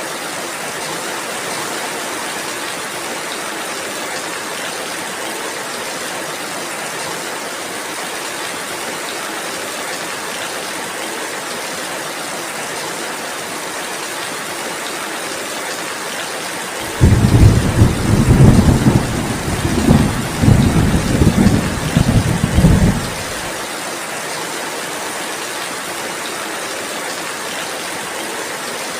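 Steady rainfall, with a low roll of thunder rumbling for about six seconds starting a little past halfway.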